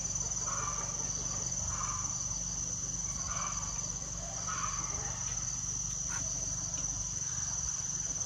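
Crickets or other insects chirring steadily in a high band, with a softer animal call repeating about every second or so.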